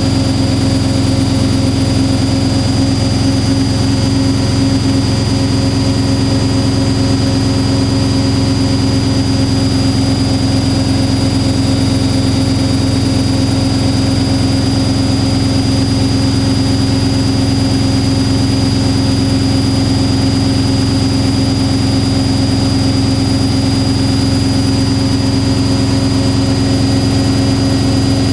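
Washing machine drum spinning at high speed: a loud, steady hum and whine that holds level throughout.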